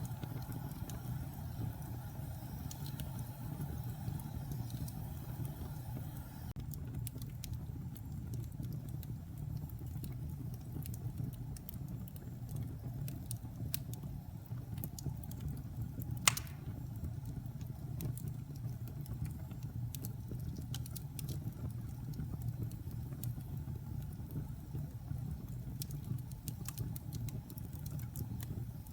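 Log fire in a fireplace burning with a steady low rumble and frequent small crackles, and one loud sharp pop a little past halfway.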